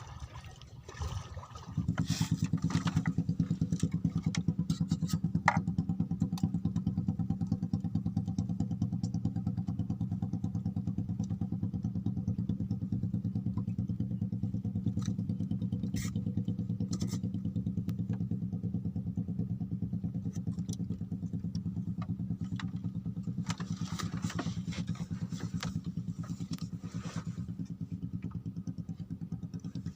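A small engine comes in abruptly about two seconds in, then runs steadily at an even speed with a fast, regular pulse.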